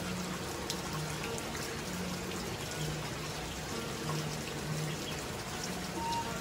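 Steady rain falling, an even hiss with scattered drips, under soft background music.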